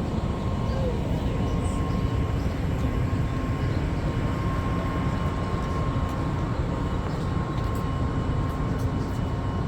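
Steady low rumble of an Amtrak train standing at the station, with a steady high hum running over it.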